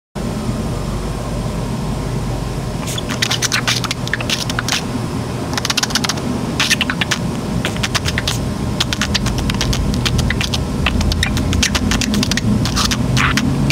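Budgerigar making rapid clicks and short high chirps in clusters, starting about three seconds in, over a steady low background rumble.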